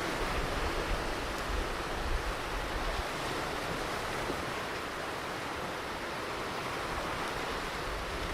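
Ocean surf washing on a beach: a steady hiss of breaking and receding waves.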